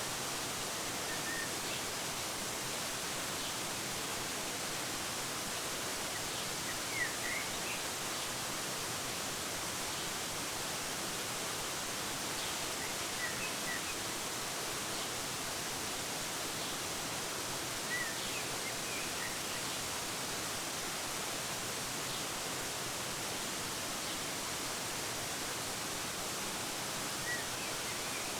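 Waterfall rushing steadily, a constant hiss, with a few short bird chirps scattered through it.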